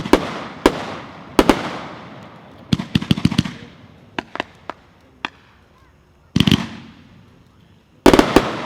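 A 25-shot consumer firework cake firing: a string of sharp bangs from its shells bursting, each trailing off in an echo, irregularly spaced. There is a short lull past the middle and a rapid cluster of bangs near the end.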